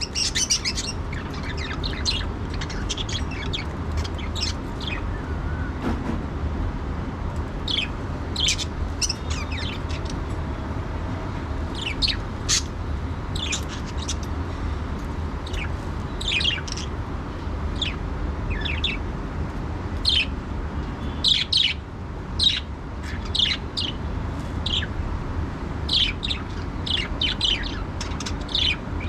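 Budgerigars chirping: many short, high chirps in irregular clusters, over a steady low hum.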